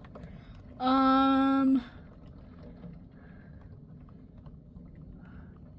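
A voice holding one steady hummed note for about a second, followed by a faint steady hiss of rain.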